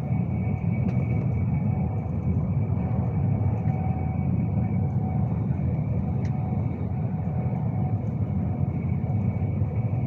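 Steady low rumble of a Class 390 Pendolino electric train running along the line, heard from inside the carriage, with a faint steady whine above it.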